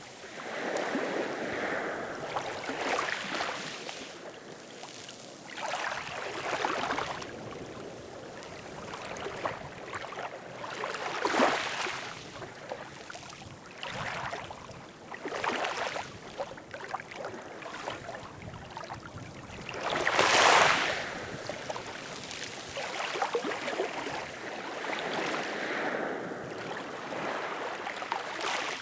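Ocean waves washing in, a surge of splashing water every few seconds, with the loudest wave about two-thirds of the way through.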